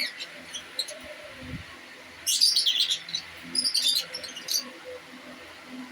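Aviary birds chirping and tweeting in short high calls, with a busy burst of chirping about two and a half seconds in and another around four seconds.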